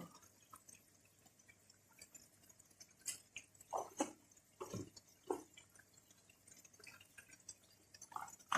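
Chicken cooking in its juices in a pan, with faint scattered liquid pops and drips.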